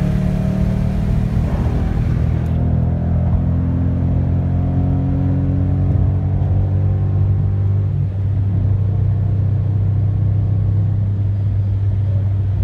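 2014 Ford Mustang GT's 5.0-litre V8 running under load from inside the cabin, its pitch rising over the first several seconds and then settling into a steady low drone at motorway cruise. A high hiss above it drops away about two and a half seconds in.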